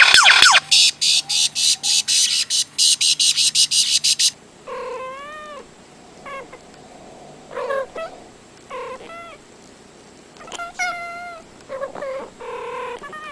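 A fast run of loud, sharp, high-pitched pulses, about five a second, that stops suddenly about four seconds in. Then a cat meows several times, in short calls that rise and fall in pitch.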